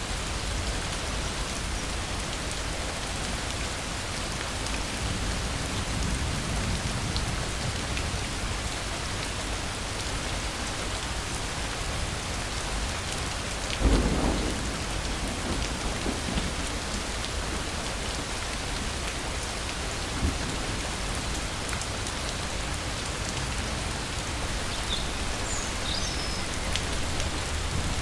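Steady heavy rain falling, with one sudden clap of thunder about halfway through that rumbles away over a couple of seconds.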